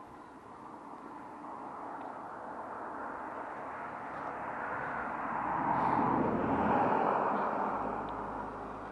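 A vehicle passing by: a broad rushing noise that swells slowly, is loudest about six to seven seconds in, then fades away.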